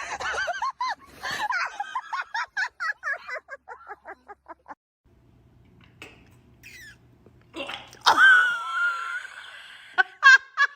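Person laughing in a long run of short bursts that trail off. After a quiet gap, a loud high-pitched cry breaks out, followed by quick laughter near the end.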